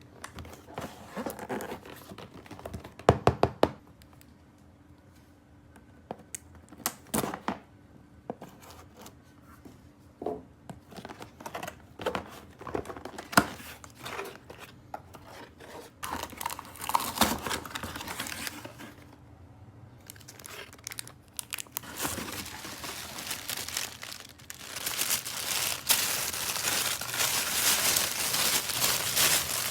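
Toy packaging being unboxed: scattered sharp clicks and short rustles, then from about two-thirds of the way in, steady crinkling and tearing of the wrapping that grows louder.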